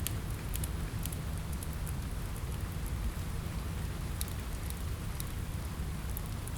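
Steady rain on a window: an even, dense hiss with a low rumble under it, dotted with scattered sharp ticks.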